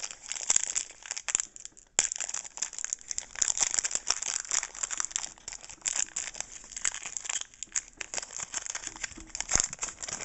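Foil Pokémon booster pack wrapper crinkling steadily as it is handled and torn open, with a brief pause about two seconds in.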